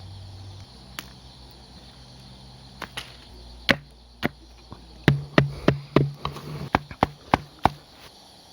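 Hatchet striking wood: a few separate chops, then a quick run of about ten sharp strikes at roughly three a second.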